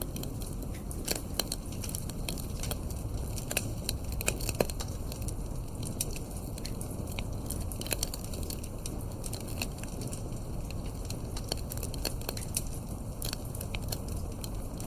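Wood fire crackling in a fireplace: many irregular sharp pops and snaps over a steady low rush of the burning fire.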